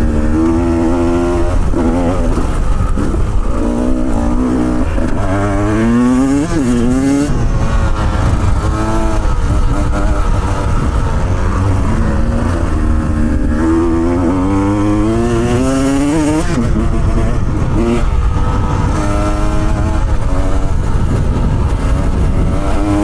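Off-road motorcycle engine being ridden, its pitch climbing and dropping again and again as the throttle opens and closes, over a steady low rumble.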